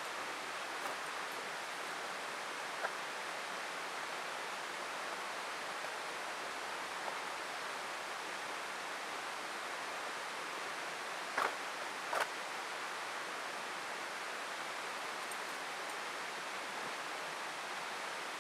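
Steady rush of a mountain river's flowing water, with a few brief clicks, the two loudest close together a little after the middle.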